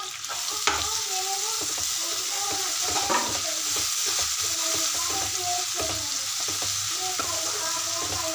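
Chopped tomatoes and onions sizzling in hot oil in a kadai while a slotted spoon stirs and scrapes them through the pan: a steady frying hiss.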